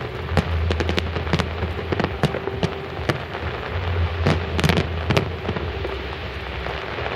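Fireworks display: a rapid, irregular series of sharp bangs and crackles over a continuous rumble, with the loudest cluster of bangs about four to five seconds in.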